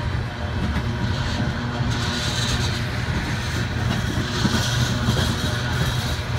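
Norfolk Southern freight train passing, a steady loud running noise from the train with a low hum and hiss that swells a couple of times.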